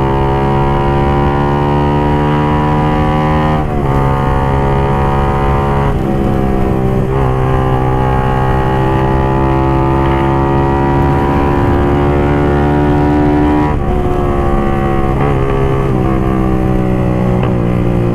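Suzuki GSX-R150's single-cylinder four-stroke engine with an aftermarket exhaust, running hard under a rider. The engine note climbs slowly through long pulls and dips briefly at about 4 and 6 seconds, as at gear changes. From about 14 seconds on it steps down several times as the bike slows.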